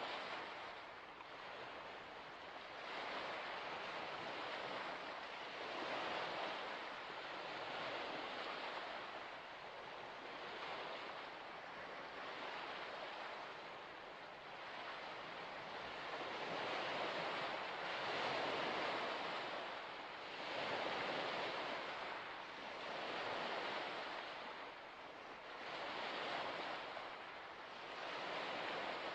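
Small waves washing onto a shore, each swell rising and falling away every two to three seconds.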